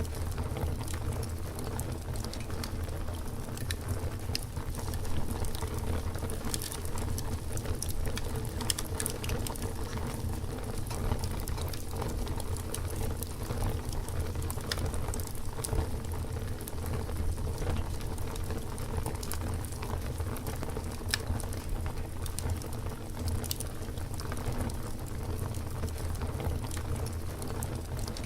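Campfire burning, with frequent small, irregular crackles and pops over a steady low rumble.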